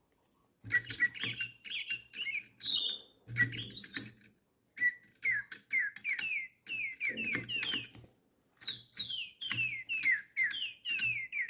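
DigiBirds toy lovebird singing a tune as a string of quick electronic chirps, each note a short whistled glide, in phrases broken by brief pauses.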